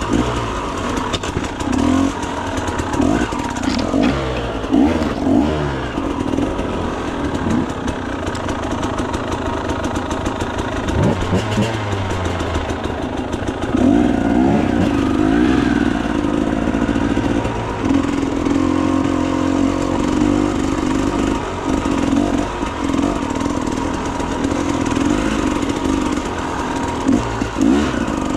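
Enduro motorcycle engine running and revving up and down while riding a trail, with scattered sharp knocks and clatter.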